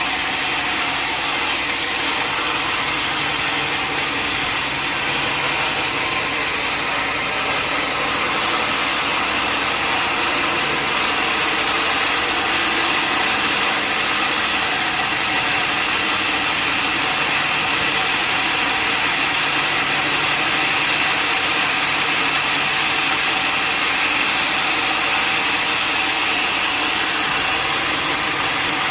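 Sawmill blade cutting through a log in one long, continuous cut, with a steady high whine over the noise of the blade in the wood.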